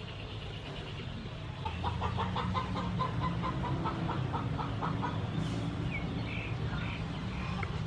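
A bird calling in the background: a quick run of short, evenly spaced notes, about five a second, for about three seconds, then a few short high chirps near the end. A low steady rumble runs underneath.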